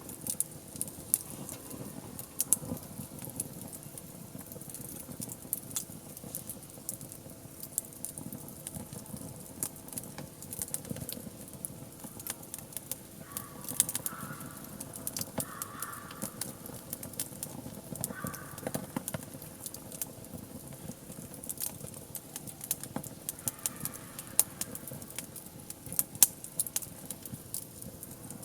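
Wood campfire burning and crackling, with frequent sharp pops and snaps over a steady low hiss.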